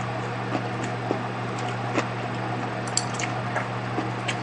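Close-up chewing: soft wet smacks and small clicks of a mouthful being chewed with the mouth closed, over a steady low hum.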